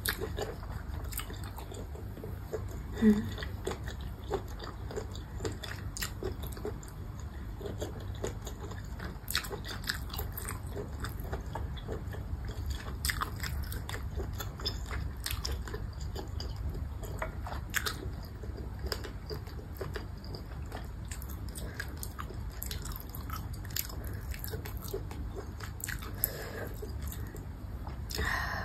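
Close-miked chewing of grilled baby squid: a steady run of small wet mouth clicks and smacks, with one louder click about three seconds in, over a low steady hum.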